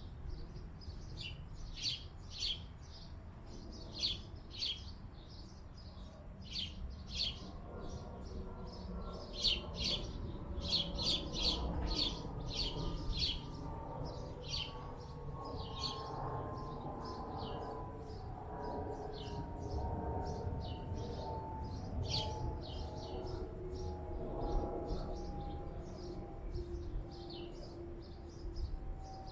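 Small birds chirping: many short, high chirps, in clusters, closest together about a third of the way in. A low rumble runs underneath, and from about a quarter of the way in a steady drone slowly falls in pitch.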